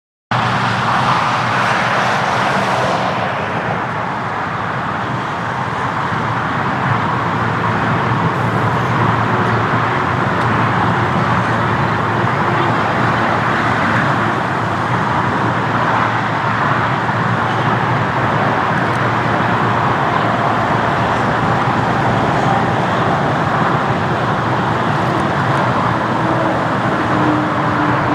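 Boeing 747-8's four GEnx-2B jet engines at takeoff power, heard from a distance as a steady, loud rushing noise. Near the end the hiss grows brighter as the jet draws closer.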